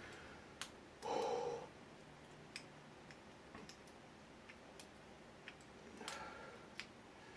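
Scattered light clicks and ticks of lock picks working the pins of an ABUS 83-series padlock core, about seven of them spread irregularly. A short breathy voice-like sound, like a snort or grunt, comes about a second in and is the loudest thing, with a softer breath near six seconds.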